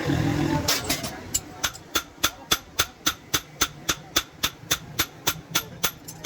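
Hammer blows on metal in a blacksmith's forging work, struck evenly at about four a second and each ringing briefly.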